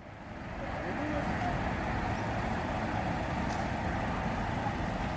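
Steady low rumble of vehicle noise, fading in over the first second, with faint voices in the background.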